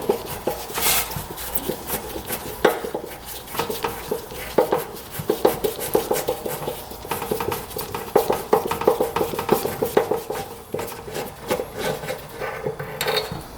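Small metal parts clicking, tapping and scraping as a rusty motorcycle fuel petcock is unscrewed and taken apart by hand, with a faint steady hum underneath.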